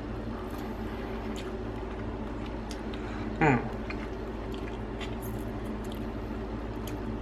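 Crab legs being cracked and picked, scattered small clicks and squishing of shell and meat over a steady low hum. A short falling voiced sound about three and a half seconds in.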